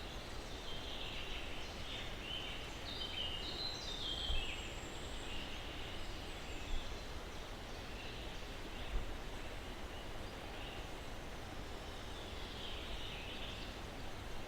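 Steady breeze hiss through pine trees with small birds chirping and calling, a busy run of short stepped notes about two to five seconds in and more chirping near the end. A few brief low bumps stand out in the loudness.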